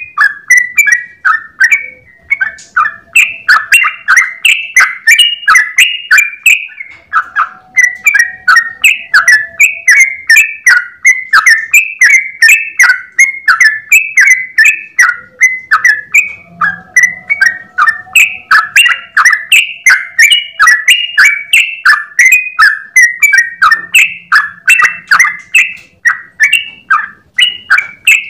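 Yellow-vented bulbul (trucukan) singing a long, unbroken run of rapid notes, about two to three a second.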